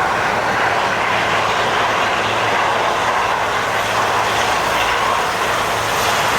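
Marine Corps helicopter (Nighthawk 1) coming in to land: a loud, steady roar of rotors and turbine engines.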